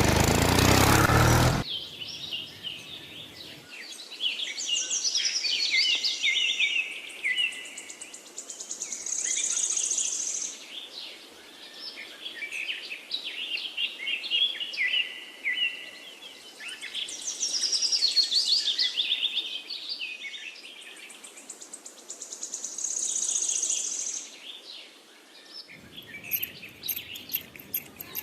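A small toy diesel engine running, cutting off suddenly about a second and a half in. Then birds singing, with repeated phrases of high chirps and trills.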